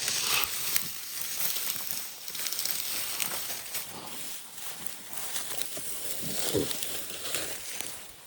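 Rustling and crackling of dry leaves and twigs underfoot, with scattered small snaps, as someone walks through brush.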